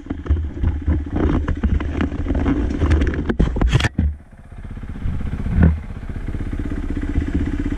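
Dirt bike engine running under throttle with many sharp clattering knocks. Around four seconds in the engine drops off sharply, then picks back up, with one loud knock as it does.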